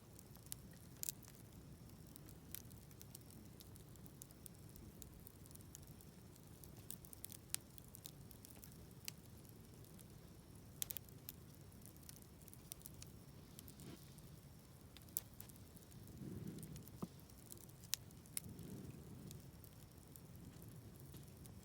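Wood campfire burning with sparse, irregular sharp crackles and pops over a low steady rumble. A soft low rush swells twice near the end.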